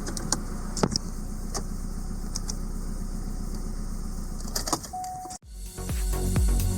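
Subaru EJ20 twin-turbo flat-four in a Legacy GT-B running steadily at idle, with a few light clicks over it. The sound cuts off suddenly about five seconds in and electronic music starts.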